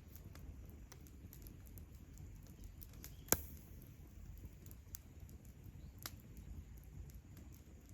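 Wood campfire crackling: scattered small crackles and ticks over a low steady rumble, with one sharp loud pop a little past three seconds in.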